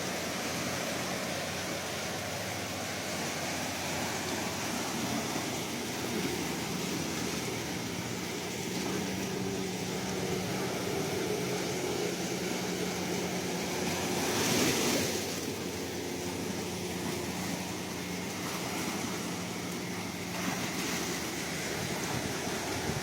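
Ocean surf washing steadily, with one wave swelling louder about two-thirds of the way through. A faint low hum runs underneath through the middle.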